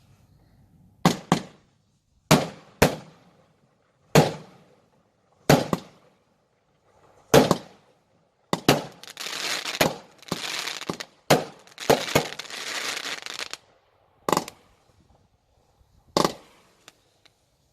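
Consumer fireworks going off: a series of sharp bangs one to two seconds apart, then about five seconds of dense crackling from the middle on, with a few more bangs near the end.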